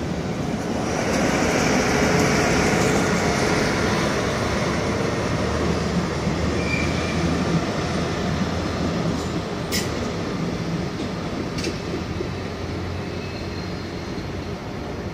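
Trains moving through a station: an SBB Re 460 electric locomotive rumbles past close by, loudest in the first few seconds. A diesel work tractor hauling flat wagons follows with a low steady engine drone, and there is a brief wheel squeal and two sharp clicks near the middle.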